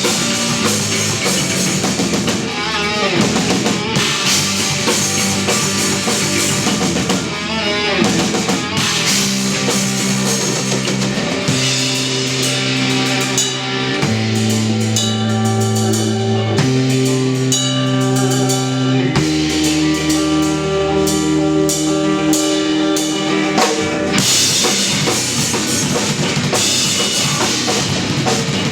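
Instrumental post-rock played live by an electric guitar, electric bass and drum kit trio. Through the middle the band holds long sustained chords that change every two to three seconds, and the drums keep playing throughout.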